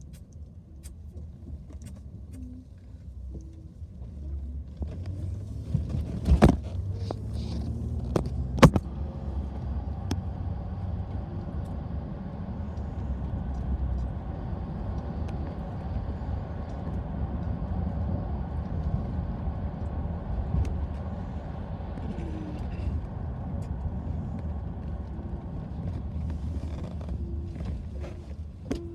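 Car engine and road noise heard from inside the cabin while driving. The engine note rises as the car speeds up about five seconds in. Two sharp knocks, about six and eight and a half seconds in, are the loudest sounds.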